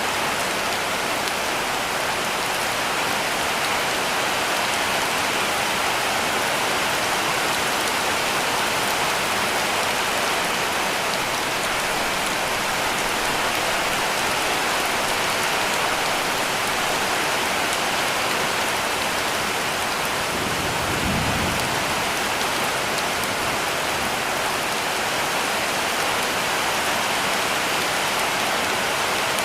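Heavy rain falling steadily on a cabin roof, a dense, even patter. A brief low rumble comes about two-thirds of the way through.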